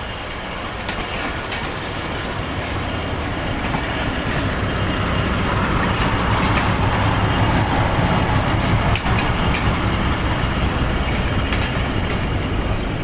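Pakistan Railways express passenger train rolling along the track, heard from a coach window: a steady rumble of wheels on rails with scattered clicks over the rail joints, growing gradually louder.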